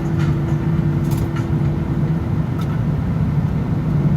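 Steady cabin noise of an Airbus A319 with its jet engines running at low power: a constant low rumble and hum, with a few faint ticks.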